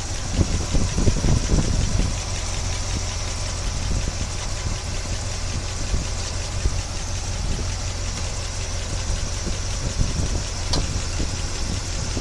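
1976 Chevy Blazer's engine idling steadily, sounding normal to its owner. There are a few louder knocks between about half a second and two seconds in.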